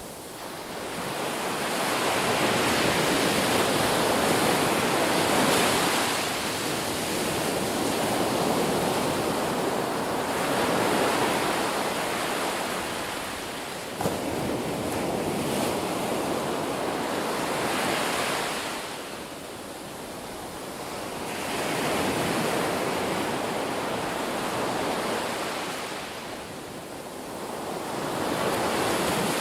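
Ocean surf: waves breaking and washing in as a continuous rush that swells and eases every several seconds.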